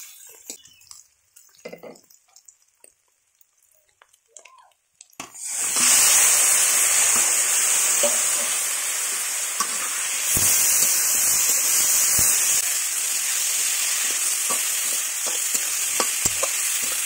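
A few quiet scrapes of a spatula against a wok with onions frying in oil. About five seconds in, raw pork pieces go into the hot oil and a loud, steady sizzle starts, with a spatula stirring the meat.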